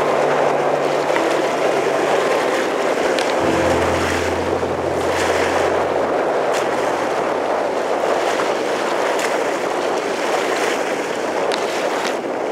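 Strong wind and surf after a typhoon, a steady rushing noise with a deeper rumble for a couple of seconds about a third of the way in.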